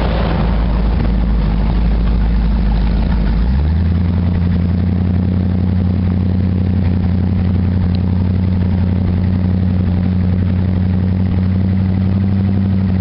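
Motorboat engine running, its pitch stepping up about three and a half seconds in, then holding steady.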